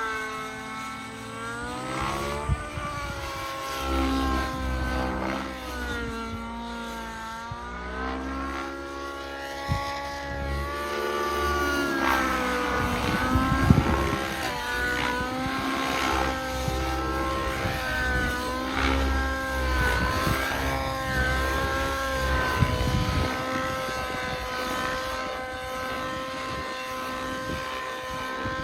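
Nitro RC helicopter's two-stroke glow engine running under flight load while it flies aerobatics. The engine's pitch keeps swinging up and down as the rotor load changes, with surges of low rotor noise and a few sharp blade pops, the loudest about halfway through.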